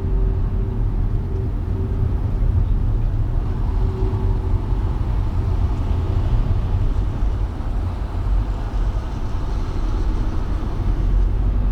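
A car driving through city traffic: a steady low rumble of engine and road noise with a faint hum, unbroken throughout.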